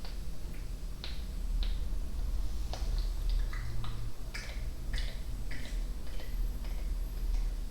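Close-miked ASMR mouth sounds: irregular tongue clicks and small pops, about two a second and busier in the middle, over a steady low hum.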